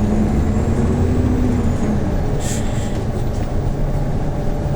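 Hyundai New Super Aero City CNG city bus engine running under way, heard from inside the cabin: a steady low rumble whose note rises slightly and then eases off. A short hiss comes about two and a half seconds in.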